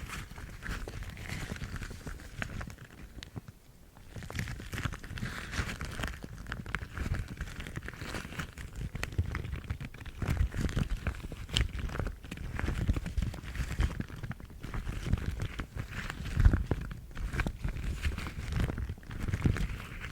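Yellow household rubber gloves rubbed, scratched and crinkled close to the microphone: continuous rustling with many small clicks and soft thuds. The sound dips briefly about three and a half seconds in, and there is a louder thud about sixteen seconds in.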